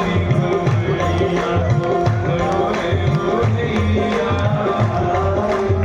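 Instrumental passage of bhajan music: a hand drum plays a steady, quick rhythm with low strokes that bend in pitch, over held notes from a melody instrument.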